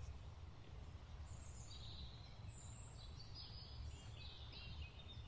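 Faint birdsong: birds chirping in short high calls from about a second in, over a low steady rumble.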